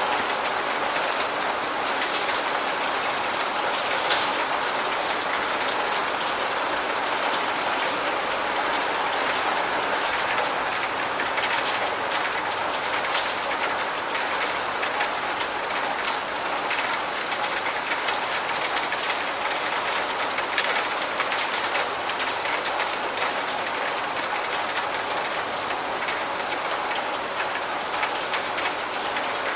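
Steady rain falling, with scattered louder drops striking a surface.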